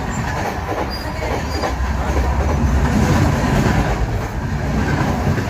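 Janshatabdi Express passenger train running on the rails: a steady low rumble of wheels and coaches with faint clickety-clack from the rail joints, swelling a little louder around the middle.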